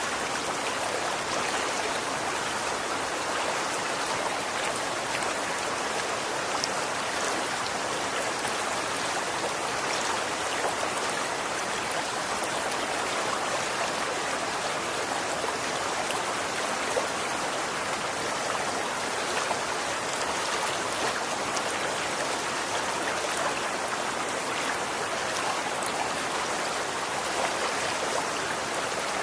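Running water flowing steadily: an even rushing sound with faint droplet ticks scattered through it.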